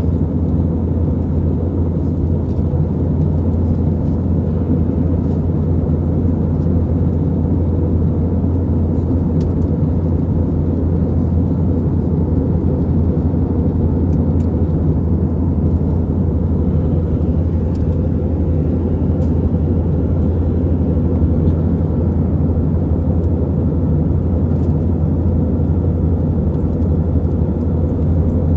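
Steady cabin noise inside an Airbus A320-200 in flight: a low, even drone of the jet engines and airflow, with no change in pitch or level.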